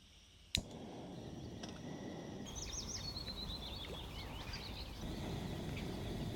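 A bird singing a quick run of chirps and a trill in the middle, over a steady noisy rustle that starts with a sharp click about half a second in.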